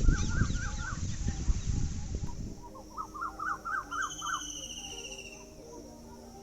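Birds calling: a repeated phrase of short rising chirps, given twice, with a high, fast trill between them. A low rumble under the first two seconds stops where the recording changes.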